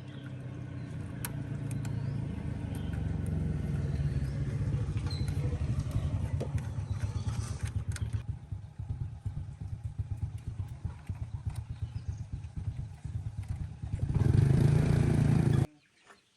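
Tractor engine running with a rapid pulsing beat, picking up over the first few seconds and louder for a moment near the end, then cutting off suddenly.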